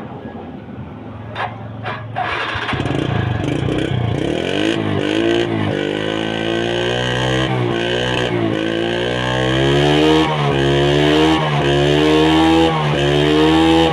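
TVS Metro 100cc motorcycle's single-cylinder four-stroke engine, running low for the first few seconds and then revved again and again with the throttle, the pitch rising and falling about once a second and growing louder. It keeps running evenly, with no sign of stalling.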